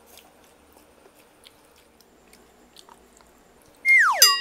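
Faint chewing and small wet clicks of someone eating spicy chicken feet. Near the end, louder than anything else, a quick downward-sliding whistle-like tone followed by a bright ringing chime that fades out: an edited-in sound effect.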